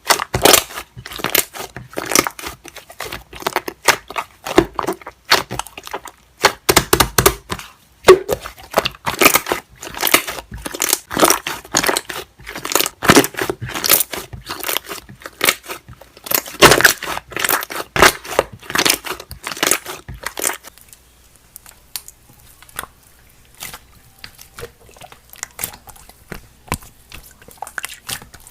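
Slime being squeezed and stretched by hand, making rapid crackling, popping clicks. About twenty seconds in the clicking drops to quieter, scattered pops.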